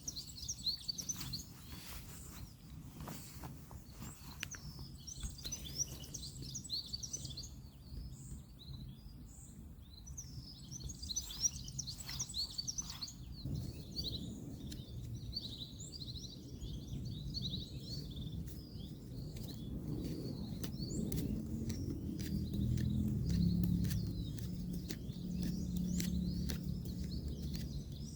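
Small birds chirping continuously, with scattered light clicks. A low rumble of distant road traffic builds from about halfway through and is loudest near the end.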